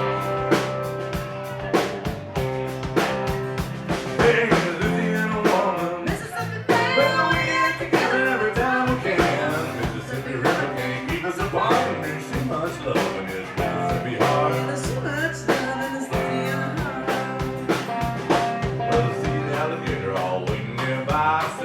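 Live country band playing a song with a steady drum-kit beat, guitar and bass, with singing over it.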